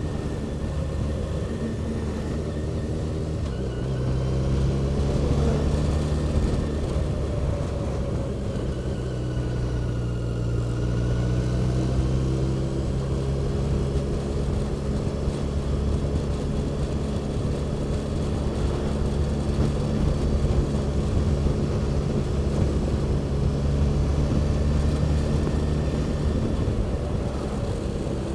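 Vehicle engine running under way at road speed, its pitch shifting about four seconds in and again around nine seconds, over steady wind rumble.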